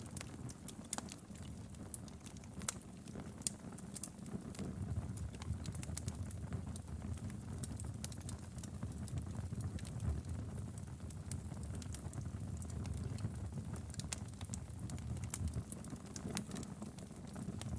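Wood fire burning in a fireplace: a low steady rumble of flames with irregular sharp crackles and pops throughout.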